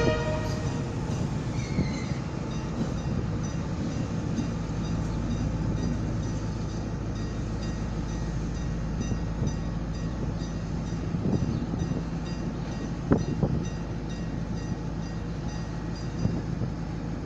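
Diesel locomotive engine running steadily with a low hum, and a couple of sharp knocks about thirteen seconds in.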